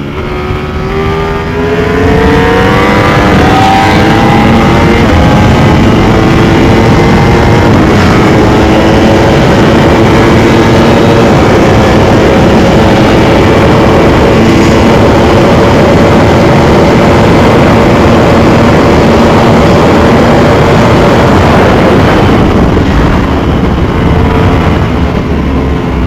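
Sportbike engine at full throttle at high speed. Its pitch climbs over the first couple of seconds, holds high and steady under heavy wind rush, then drops away near the end as the throttle is closed.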